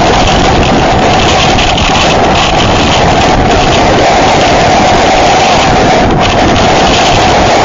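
Loud, steady roar of hurricane wind buffeting the microphone.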